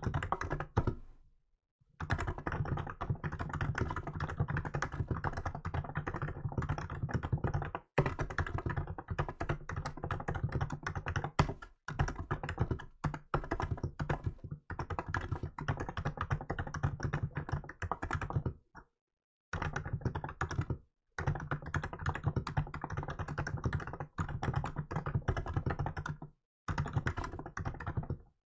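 Fast, continuous typing on a Hansung GK868B electrostatic capacitive (contactless) keyboard with milk keycaps. Long runs of rapid keystrokes are broken by short pauses of about a second, the longest ones near the start and at about 8, 12, 19, 21 and 26 seconds in.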